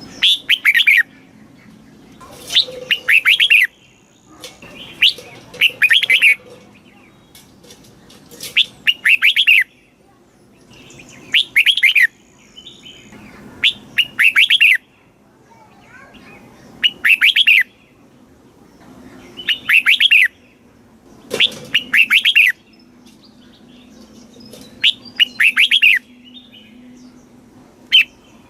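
Red-whiskered bulbul singing: about ten short, loud song phrases of roughly a second each, repeating every two to three seconds.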